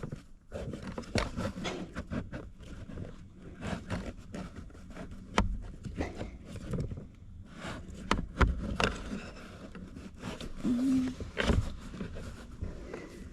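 Irregular clicks, knocks and scrapes of hands working at plastic parts under a truck's dashboard, tugging to free the heater blower motor.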